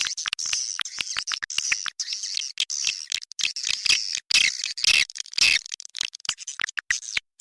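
Swiftlet call recording, the kind played to lure swiftlets to a nesting house: a dense run of fast, high-pitched chirps and clicks, busiest and loudest about halfway through, with brief sudden breaks.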